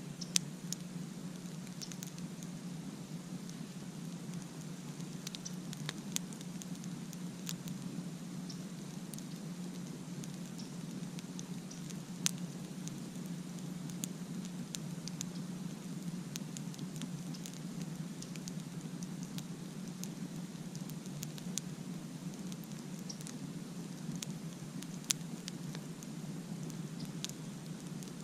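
Campfire crackling: a constant scatter of small, irregular ticks and snaps with a few sharper pops, over a steady low rumble.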